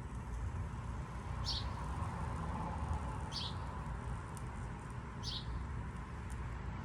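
A bird giving a short, high chirp three times, about two seconds apart, over a steady low rumble.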